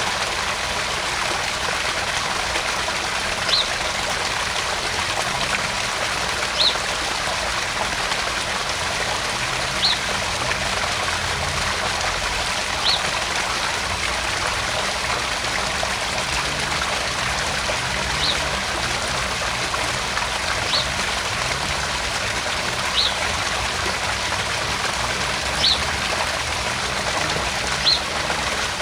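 Garden pond waterfall: water trickling and splashing steadily into the pond. A short high blip sounds every two to three seconds, about nine times.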